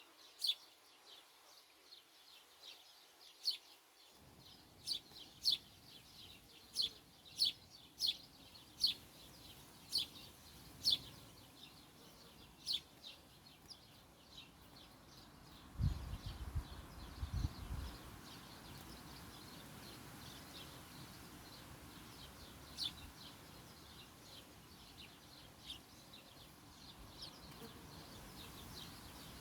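A small bird calling with short sharp chirps, about one a second at first and sparser later. A few low thuds come about halfway through.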